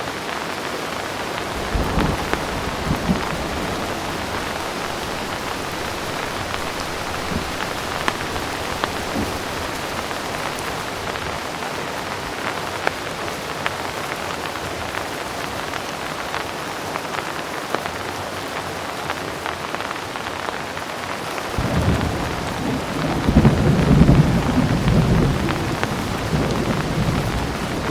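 Heavy rain falling steadily. A short low rumble of thunder comes about two seconds in, and a longer, louder roll of thunder starts about three-quarters of the way through, peaking a couple of seconds later.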